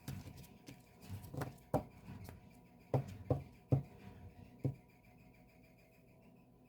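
Album packaging being handled by hand: soft rustling and shuffling, with about five sharp taps or clacks in the middle seconds, then it goes quieter.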